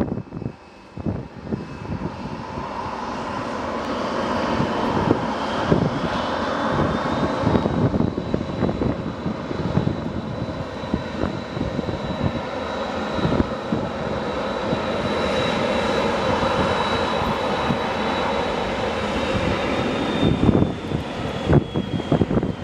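Boeing 737-300's CFM56 turbofan engines at take-off power: a loud jet roar that builds over the first several seconds, with a high fan whine that holds steady and drops slightly in pitch near the end. Wind buffets the microphone throughout.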